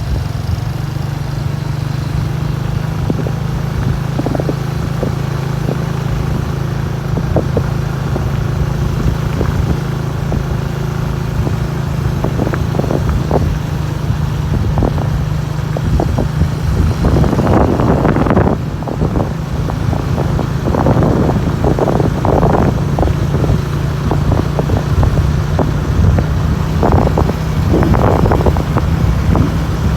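Motorcycle engine running at a steady cruising speed with wind buffeting the microphone; the buffeting grows louder and gustier in the second half.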